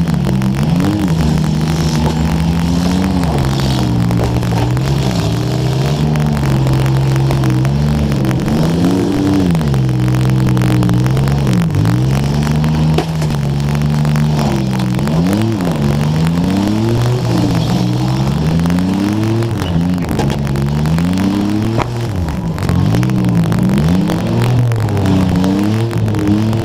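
Demolition derby car's engine revving up and falling back over and over, as the car drives back and forth, with crackling static from a wet microphone over it.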